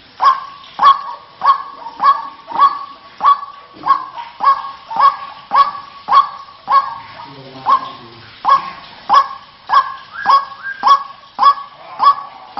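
White-breasted waterhen calls from a lure recording: a long, steady series of loud, repeated calls, nearly two a second, with a short break a little past the middle.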